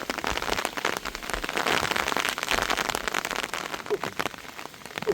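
Heavy rain falling, a dense steady patter of many drops striking a surface.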